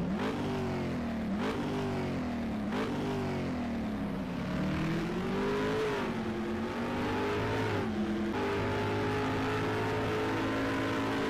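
Car engine revving: three quick blips of the throttle, each rising sharply and falling back, then a slower climb in pitch that levels off into a steady high drone.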